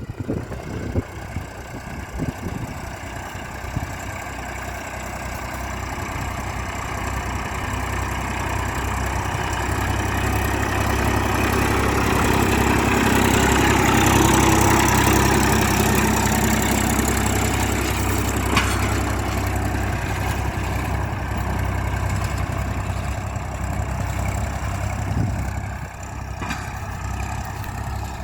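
Massey Ferguson 241 tractor's three-cylinder diesel engine running steadily while pulling a nine-tine cultivator, growing louder to a peak about halfway through and then fading somewhat.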